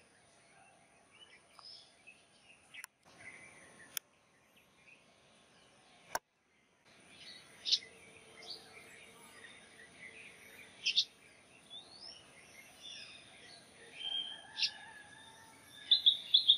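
Wild birds calling in the trees: faint scattered chirps, three short sharp louder calls spread through the second half, and a fast run of repeated high notes near the end.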